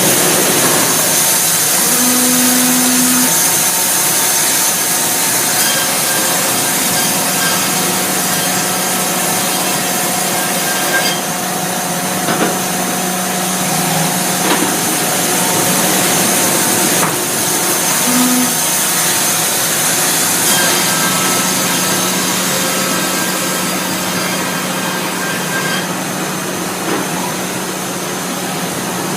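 Band sawmill sawing oak, a continuous, loud cutting noise over a steady machine hum.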